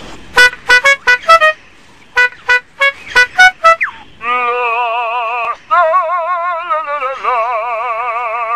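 Male superb lyrebird singing a mimicked song: a quick series of short, sharp pitched notes, then, about four seconds in, long warbling tones that wobble rapidly up and down in pitch, like an electronic alarm.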